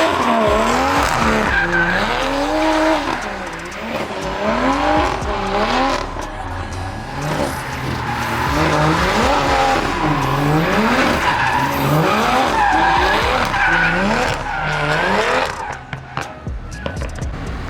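Car engine revving up and down over and over while the car drifts, with tires squealing and skidding on pavement. The revving eases off near the end.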